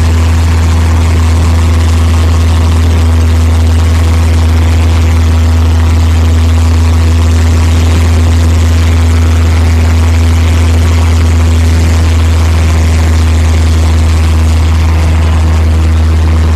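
Cessna 172 floatplane's piston engine and propeller running at a steady, unchanging drone, loud and low.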